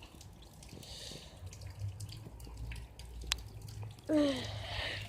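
Rain dripping, faint, with many small scattered ticks and one sharper click a little past three seconds in; a short voiced sound from a person breaks in about four seconds in.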